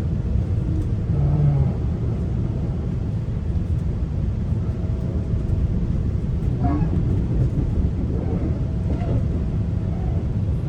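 Steady low rumble of a GO train in motion, heard from inside the passenger coach.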